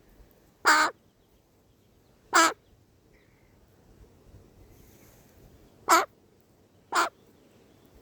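Young crow, a hand-reared fledgling, cawing: four short, loud caws, the first three spaced more than a second apart and the last two closer together.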